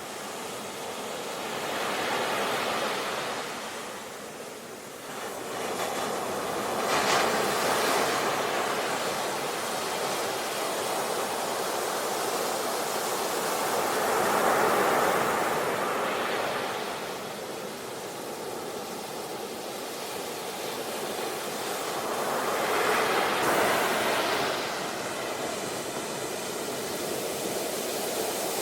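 Sea waves breaking and washing in, the surf swelling and easing about four times.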